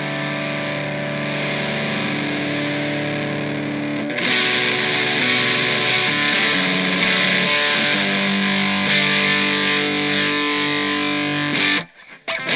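Electric guitar on its bridge humbucker played through a Fender Santa Ana Overdrive pedal into an amp: held overdriven chords that get louder and brighter about four seconds in. The playing stops briefly near the end, then starts again.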